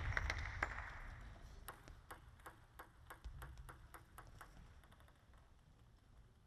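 Table tennis ball bouncing, a string of light sharp ticks at about three a second that grow fainter, while the last of the crowd's applause dies away in the first second.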